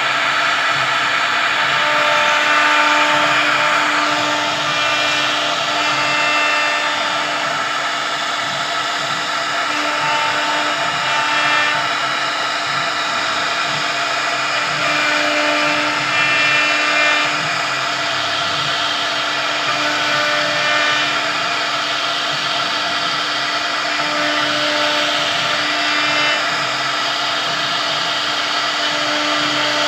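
CNC wood-carving router running and cutting wood: a steady, continuous machine whine and hum with short higher tones coming and going.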